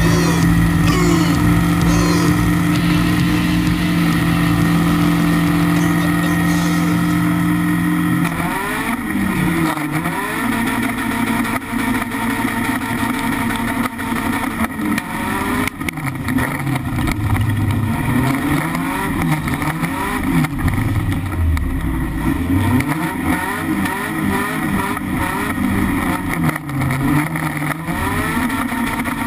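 BMW E36 318iS four-cylinder race engine heard from inside the cabin, held at steady high revs on the start line, then launching about eight seconds in. For the rest of the time the revs climb and drop again and again as the car accelerates and shifts.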